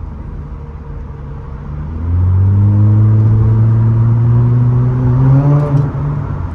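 Straight-piped Nissan Altima exhaust under hard acceleration. It runs at a steady drone for about two seconds, then gets much louder as the throttle opens, the pitch climbing steadily for about three and a half seconds before falling away near the end.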